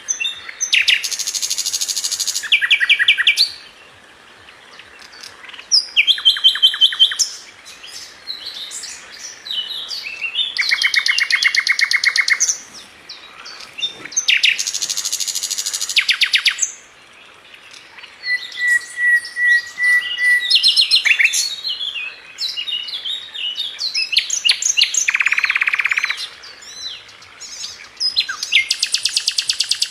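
A sikatan London flycatcher singing a varied song: bursts of fast, high trills and chirps separated by short pauses. A run of evenly spaced notes comes about two-thirds of the way through.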